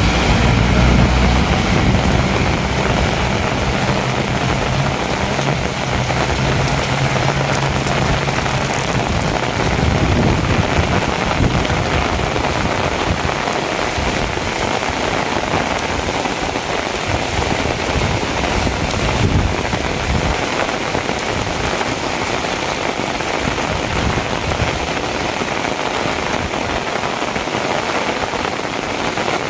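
Heavy rain falling steadily and hard on surfaces. For roughly the first third, a low engine hum runs under it and then fades away.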